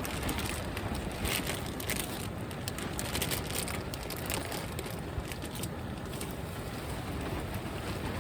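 Strong wind buffeting the microphone: a steady rumbling rush, with bursts of fine crackling over the first few seconds.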